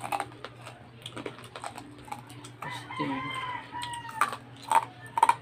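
Close-miked crunching and chewing of crispy fried pork: sharp, scattered crunches, the loudest near the end. A rooster crows in the background about midway, one call lasting about a second and a half.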